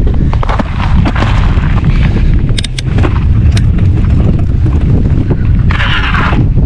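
Strong wind buffeting the microphone in a loud, steady low rumble, with a few sharp clicks a little before the middle and a short burst of hiss near the end.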